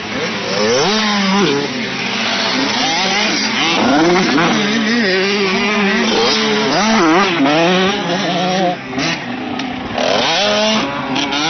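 Several motocross bike engines running at once, revving up and down and overlapping, with one holding a steady note beneath.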